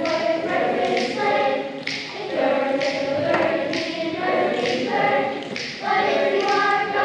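A choir singing a cappella in parts, with crisp consonants on the words.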